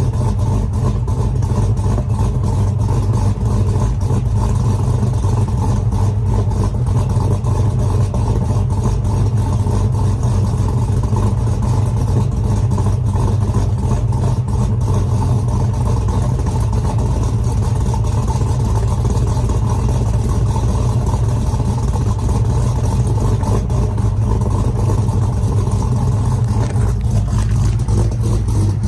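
Engine of a cammed 2018 Chevy Silverado pickup, fitted with an aftermarket camshaft, idling steadily after a cold start.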